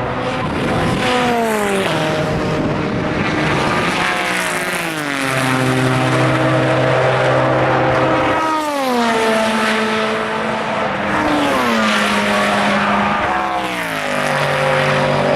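Endurance race cars going by on track. The engine notes slide down in pitch about five times, each time settling onto a steady note, as successive cars pass.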